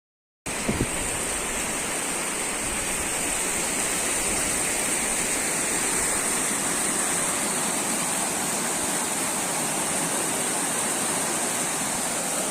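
Steady rush of a river in flood, an even noise of fast-flowing water that cuts in suddenly half a second in, with a couple of brief low bumps just after.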